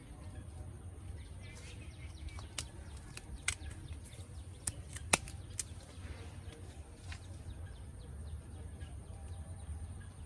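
A quick series of sharp clicks and snaps as a ripe dragon fruit is harvested from its cactus stem, the loudest a single snap about halfway through, over a steady low rumble.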